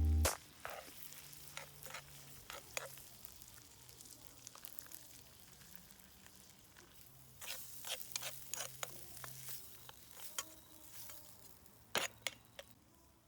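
Sirloin steak sizzling over a campfire, a steady quiet hiss with scattered sharp pops and crackles. The pops come more thickly about seven to nine seconds in, with the loudest crack near the end.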